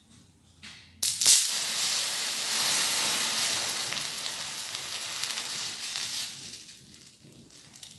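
A chemical reaction set off with water, starting suddenly about a second in with a loud, vigorous hissing and sizzling, like burning and steam, that gradually dies away after about five seconds.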